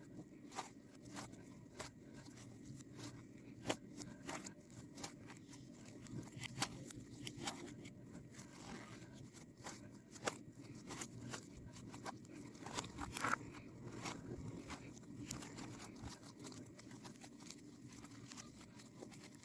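Slime being squeezed, poked and stretched by hand, giving irregular sticky clicks, pops and crackles.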